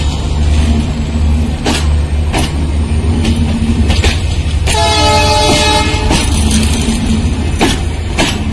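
Passenger train coaches passing at speed: a steady low rumble with wheels clacking sharply over the rail joints. About halfway through, a multi-tone train horn sounds for about a second and a half.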